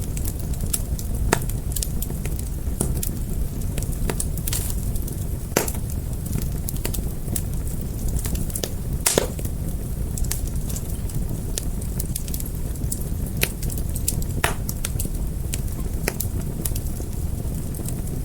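Wood fire crackling: irregular sharp pops and snaps over a steady low roar of burning.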